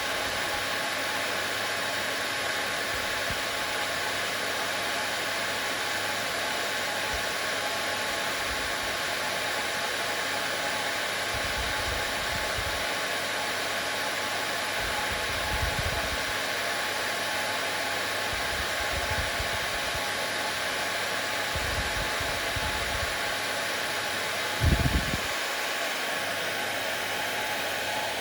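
Hair dryer running steadily, a continuous even whoosh of air with a faint steady motor hum. A few short low bumps come through between about 11 and 25 s in, the strongest near the end.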